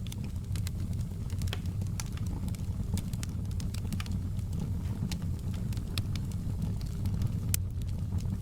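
Wood fire crackling in a fireplace: irregular sharp pops and snaps, a few to several a second, over a steady low rumble of the flames.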